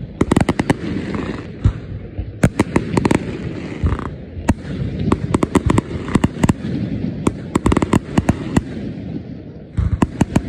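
Aerial fireworks shells bursting: many sharp bangs and crackling pops in quick, irregular clusters of several at a time.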